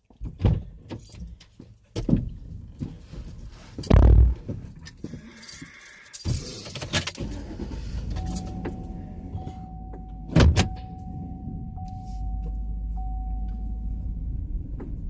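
Getting into a pickup truck: keys jangling and several heavy thumps of doors shutting, the loudest about four seconds in. Then a steady electronic chime tone sounds from about halfway, over a low engine rumble that grows stronger near the end.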